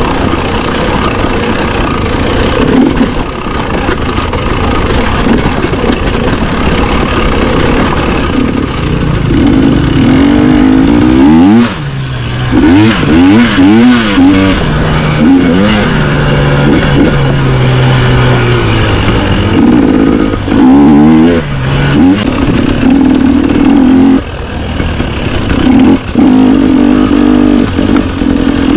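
Dirt bike engine running under way, its revs rising and falling with the throttle and gear changes, with a few brief drops where the throttle is shut off.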